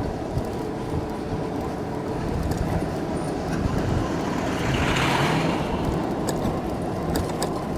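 Steady road rumble and wind noise while riding on a road, with a passing vehicle's hiss swelling and fading about five seconds in.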